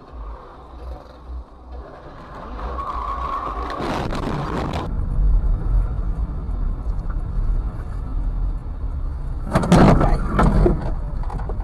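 Car engine and road rumble picked up from inside a moving vehicle, with two loud harsh noisy stretches, one about four seconds in and one about ten seconds in.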